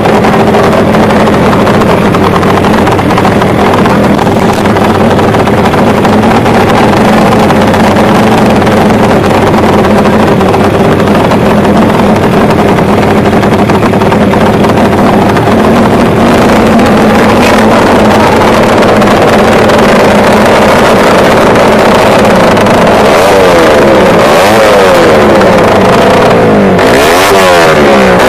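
Tuned drag-racing motorcycle engines running loud at high revs, a steady drone that near the end breaks into repeated throttle blips, the pitch rising and falling over and over.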